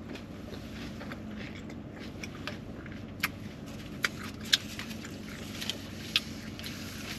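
Close-up chewing of a mouthful of burrito, with several sharp wet mouth clicks between about three and six seconds in, over a low steady background hum.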